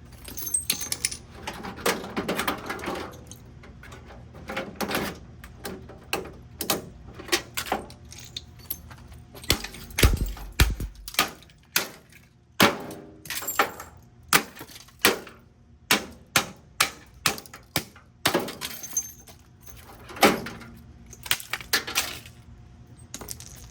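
A Hamilton Beach microwave oven being smashed: dozens of sharp, irregular blows with breaking plastic and metal. The heaviest is a deep thump about ten seconds in.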